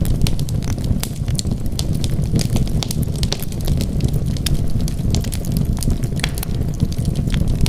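Wood fire burning: a steady low rumble of flames with many quick, irregular crackles and pops from the burning logs.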